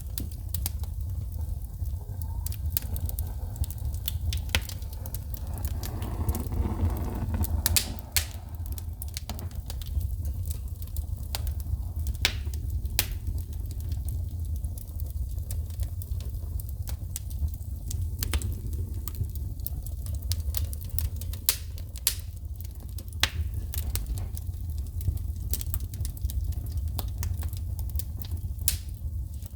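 Wood fire crackling, with sharp irregular pops and snaps of sparking wood over the low, steady rush of the flames.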